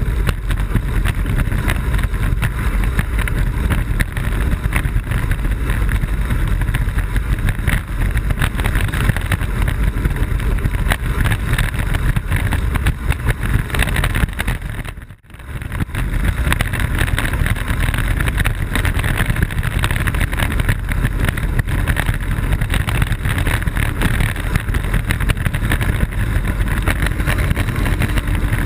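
Steady rush of wind on the microphone and rolling noise from a Blokart land yacht sailing fast. The noise dips sharply for about a second about halfway through.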